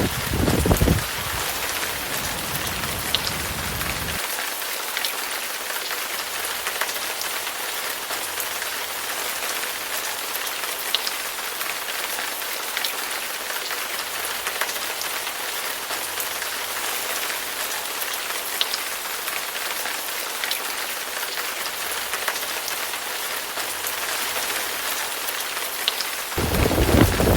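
Steady heavy rain hissing. A low thunder rumble dies away in the first few seconds, and another rumble of thunder builds up near the end.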